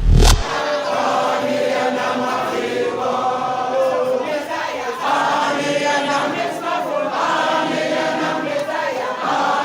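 A choir of voices singing together without bass accompaniment, after a short deep boom at the very start.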